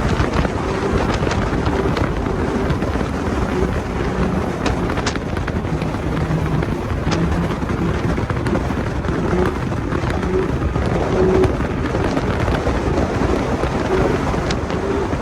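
Small boat running at speed, its engine note partly buried under the rush of wind buffeting the microphone and spray.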